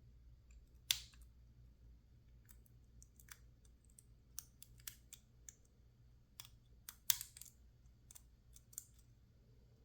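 Lock picks working the pins of a PacLock 410 Pro padlock: small metallic clicks and ticks at irregular intervals, with sharper clicks about a second in and about seven seconds in.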